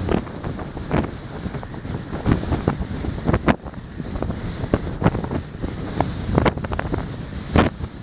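Wind buffeting the microphone: a steady low rumble broken by irregular sharp thumps, the loudest about halfway through and near the end.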